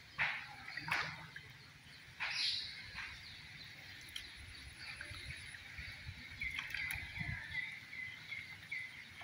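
Birds calling from the riverbank trees: a few sharp calls that drop in pitch in the first two or three seconds, then a run of quick chirps near the end, over a faint low background noise.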